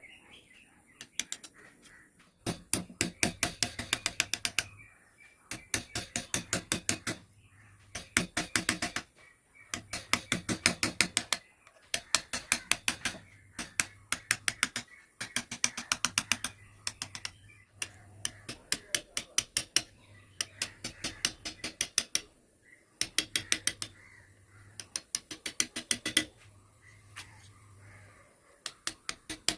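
Repeated strokes of a hand tool working wood, each stroke a rapid, even run of clicks lasting one to two seconds, with a short pause between strokes.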